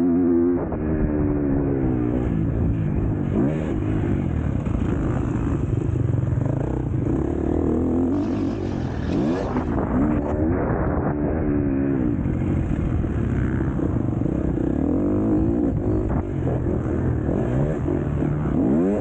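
KTM 250 SX-F single-cylinder four-stroke motocross engine revving hard and backing off again and again under race load, its pitch rising and falling every second or two. A brief hiss joins in about halfway through.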